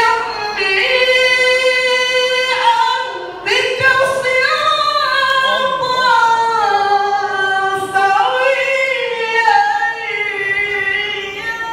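A qari's solo Quran recitation in melodic tilawah style: one high unaccompanied voice holding long, ornamented phrases that waver and slide in pitch, with short breaths about three seconds in and again near eight seconds.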